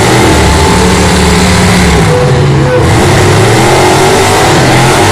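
Demolition derby cars' engines running loud and revving up and down.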